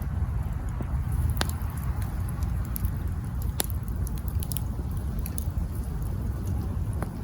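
Campfire burning with a steady low rumble and constant small crackles of burning wood, with a few sharper pops, the loudest about one and a half seconds in, near the middle and near the end.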